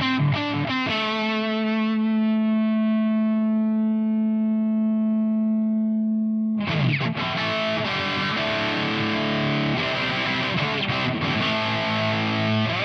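Distorted electric guitar played through an Ibanez Metal Charger distortion pedal. A single note rings out with long sustain for about five seconds, then heavy palm-muted chords and riffs come in near the middle.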